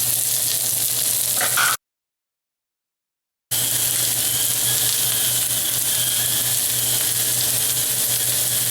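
Sliced onions sizzling in olive oil in a hot steel frying pan, a steady frying hiss. The sound cuts out completely for about a second and a half near two seconds in, then the sizzle resumes.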